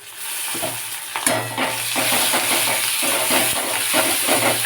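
Ginger and garlic paste frying with browned onions in hot mustard oil in a kadai: a loud steady sizzle that swells suddenly at the start. A metal spatula stirs and scrapes the paste against the pan in quick clicks, with one sharper knock about a second in.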